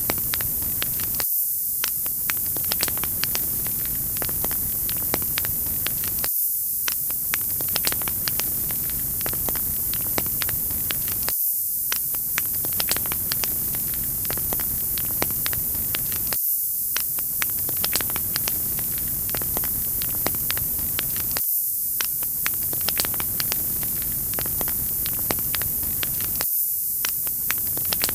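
Wood fire crackling: a steady hiss with frequent small sharp pops, the same few seconds of audio repeating about every five seconds.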